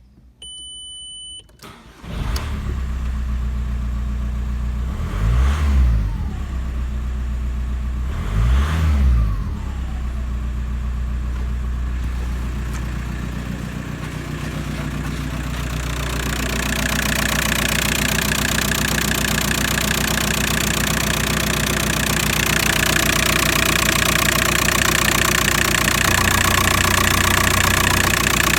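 A short electronic beep, then the Ford Galaxy's 1.9 TDI (AUY) four-cylinder turbodiesel starts and idles. It is revved briefly twice, a few seconds apart. It then settles back to idle, and in the second half the diesel clatter is louder.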